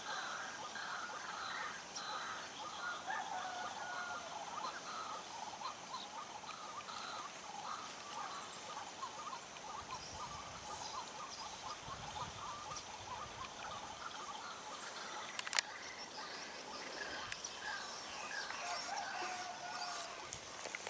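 Birds chirping and calling continually over a steady high insect hum, with one sharp click about fifteen seconds in.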